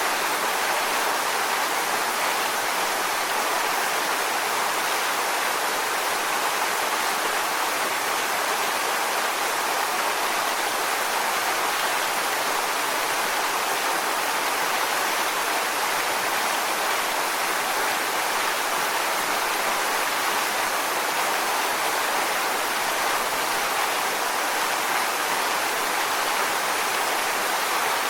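Waterfall rushing steadily: an even, unbroken hiss of falling water, strongest in the middle and upper range with little low rumble.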